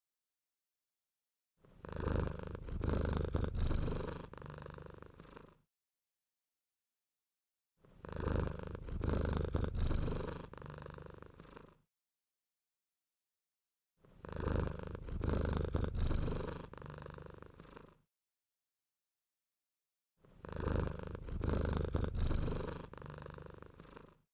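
Low purring, heard in four near-identical stretches of about four seconds, each louder in its first half, separated by about two seconds of dead silence.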